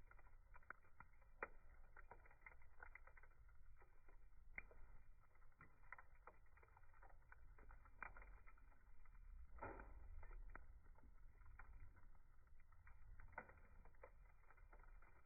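Wood campfire burning, with irregular small crackles and pops over a low, steady rumble.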